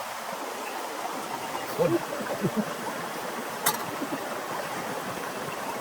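Steady hiss of rain falling, with a few faint short pitched sounds around two seconds in and one sharp click about two-thirds of the way through.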